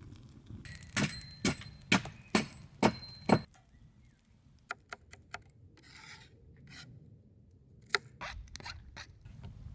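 Six sharp strikes in a steady rhythm, about two a second, then a few scattered lighter knocks and a brief scrape.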